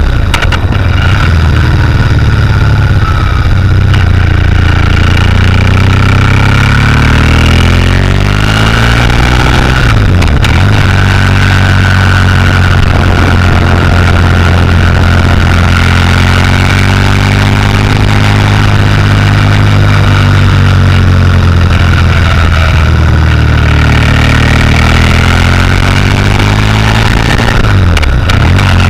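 Motorcycle engine running under way on a winding road, its pitch rising and falling with the throttle. The pitch dips sharply and recovers about ten seconds in and again near the end.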